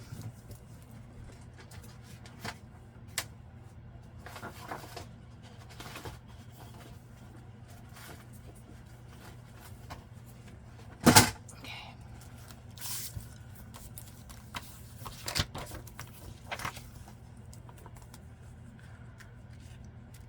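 Paper envelopes and cards being sorted and handled on a work table: scattered light rustles and taps, with one louder knock about halfway through, over a steady low hum.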